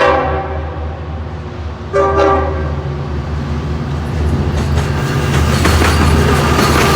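Train horn sounding two short blasts, one right at the start and another about two seconds in, followed by the rising clatter and clack of train wheels over the rails as the train comes through.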